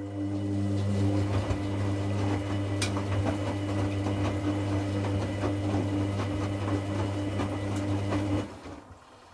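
Hoover Classica 1100 washing machine turning its drum in a rinse: the motor hums steadily while water and laundry slosh and crackle in the drum, with one sharp click about three seconds in. The motor cuts out about eight and a half seconds in as the drum stops.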